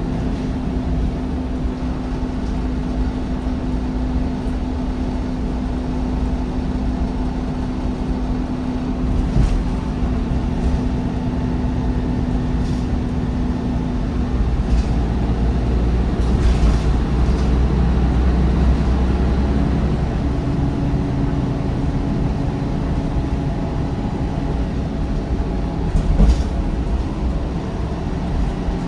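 MAN bus diesel engine, a D1556LOH, driving through a ZF Ecolife six-speed automatic gearbox, with a steady whine over a low rumble. The whine drops out about halfway through. The rumble then swells for a few seconds, and a slightly higher whine comes in. A few short knocks and rattles occur along the way.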